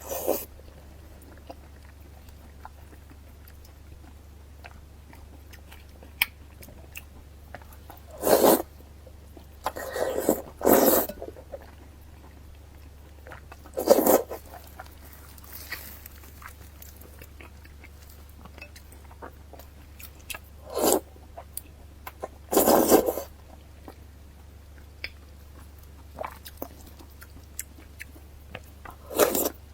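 Close-miked eating sounds from pork mesenteric fat (jiguan you): a bite or wet chew every few seconds, about seven in all, with quiet between them. A low steady hum runs underneath.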